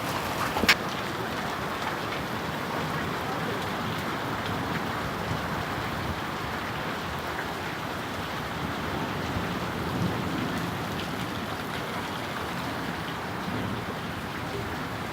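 Heavy hailstorm: rain and hail pouring down steadily, with one sharp knock of an impact a little under a second in.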